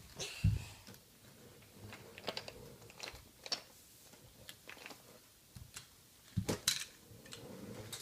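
Irregular light clicks and knocks of toy monster trucks being handled and rolled about, with a low thump about half a second in and a few louder knocks late on.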